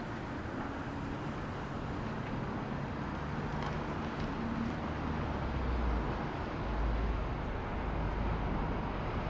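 Street traffic noise, with a vehicle's low rumble swelling about six seconds in.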